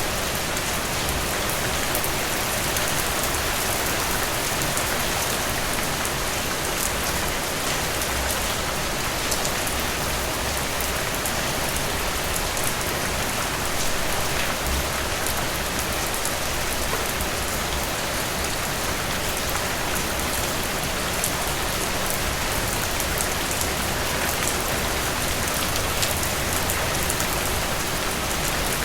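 Heavy rain falling steadily: a dense, even hiss with scattered sharper ticks of individual drops.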